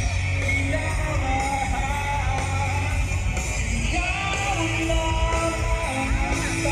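Live rock band playing with a singer, loud amplified bass and drums under the vocal line.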